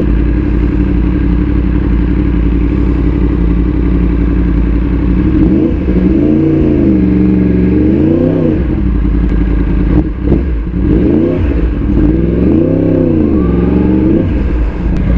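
Yamaha R1 crossplane inline-four running through an Akrapovic titanium full exhaust system, heard from the rider's seat while riding: a steady engine note, then the revs rising and falling back twice as the bike accelerates and eases off.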